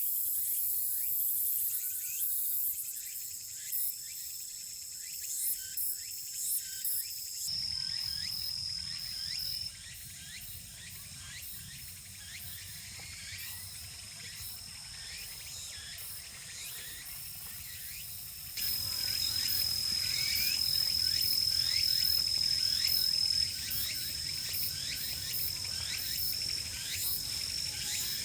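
Crickets and other insects chirping: a steady high trill over a dense high hiss of insect song. The background changes abruptly about seven and eighteen seconds in.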